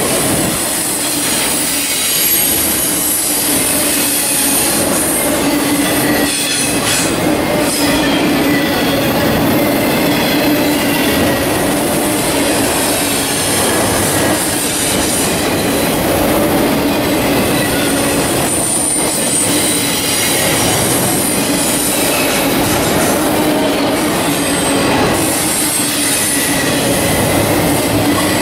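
Freight train of enclosed autorack cars rolling past close by: a steady loud rumble of steel wheels on rail with a continuous high-pitched wheel squeal over it and occasional faint clacks.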